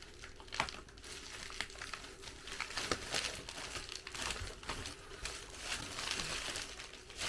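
Packaging being handled and unpacked from a shipping box: irregular crinkling and rustling with small crackles throughout.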